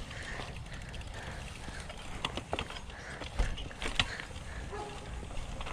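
Bicycle being ridden over a rough dirt trail: tyre noise and scattered sharp clicks and rattles, with low wind rumble on the microphone.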